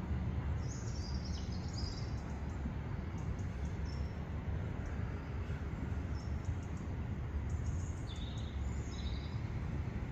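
Small birds chirping in short clusters about a second in and again about eight seconds in, over a steady low rumble.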